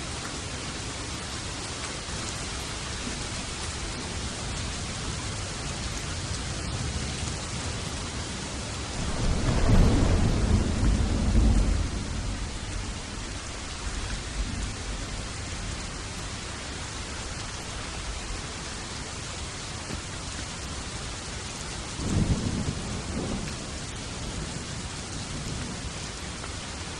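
Steady heavy rain with thunder: a loud rolling rumble about a third of the way in that lasts a few seconds, and a shorter, softer rumble near the end.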